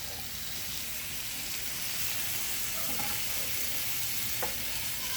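Marinated chicken pieces sizzling on a hot grill, a steady frying hiss, with a single light click about four seconds in.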